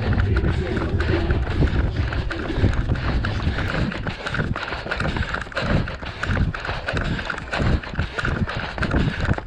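A runner's footfalls on pavement in a steady rhythm of about three strides a second, picked up by a GoPro carried on the running body and jolting with each stride.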